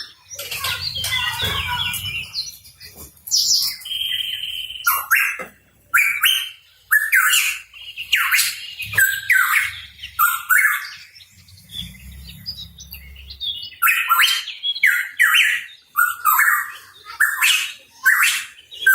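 Pitohui calling in quick runs of short, sharp chirps and squawky notes, in bursts with brief lulls between them. A faint low rumble sits under the calls twice.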